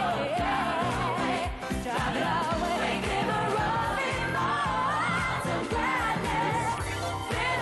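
A woman singing gliding, wordless vocal runs over a pop-gospel band with a steady beat.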